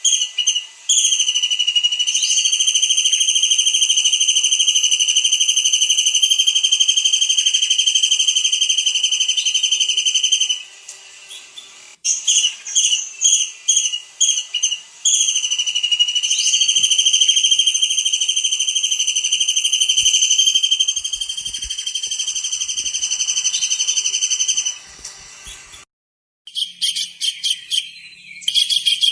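Tengkek udang (small kingfisher) calling: a run of short, sharp, high notes, then a long, high, steady trill of about nine seconds that dips slightly in pitch as it starts. The pattern repeats once, and after a brief pause a burst of rapid notes begins near the end.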